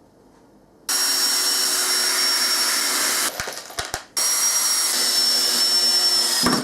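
Power drill driving screws into wooden planks, running steadily with a high whine in two runs of about two and a half seconds each, separated by a short pause with a few clicks.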